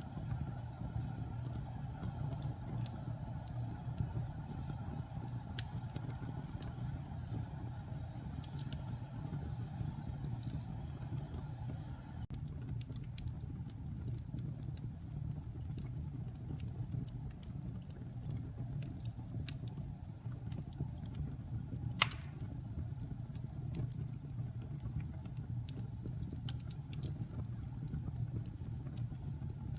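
Wood fire burning in a fireplace: a steady low rumble of the flames with scattered crackles, and one sharp pop about three-quarters of the way through.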